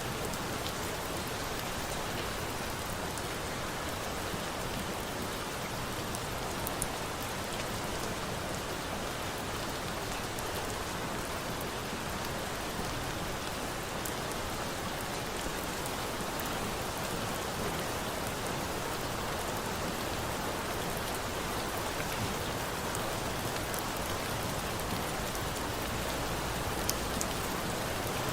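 Steady rain falling, an even hiss with a few faint sharp ticks.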